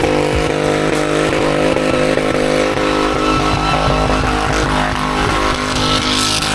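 Car engine held at high, steady revs during a burnout.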